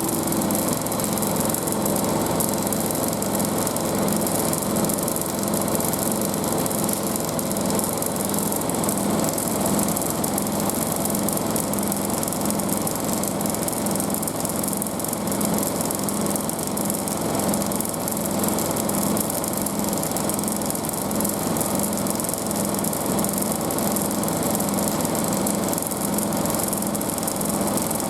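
Front-loading washing machine spinning at speed: a steady motor and drum whine with a regular throb about once a second.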